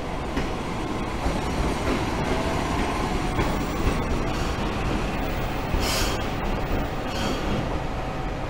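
Hisatsu Orange Railway diesel railcar running in alongside the platform, with steady wheel and rail noise and its engine. There is a brief high-pitched burst about six seconds in and a fainter one a second later.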